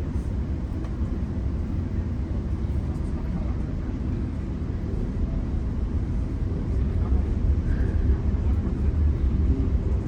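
GO Transit commuter train running at speed, heard from on board: a steady low rumble of wheels on the rails that grows a little louder over the last few seconds.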